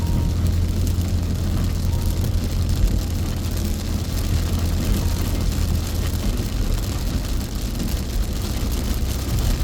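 Steady low rumble of a car driving at expressway speed, heard from inside the cabin, with an even hiss of heavy rain and wet tyres on the road.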